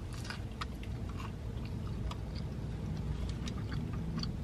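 Close-up biting and chewing of a stuffed breakfast biscuit sandwich: a run of small wet clicks and crunches over a low steady hum.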